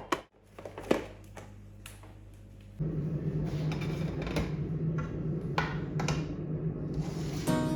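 A few sharp knocks, then a steady motor hum that switches on suddenly about three seconds in and keeps running, with occasional clicks over it.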